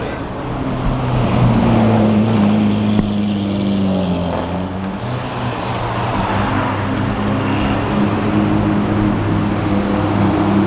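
A car engine running at low revs, a steady pitched hum that grows louder about a second in and holds.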